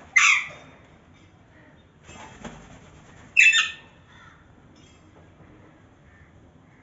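Alexandrine parakeet giving two loud, harsh squawks about three seconds apart, with softer rustling between them.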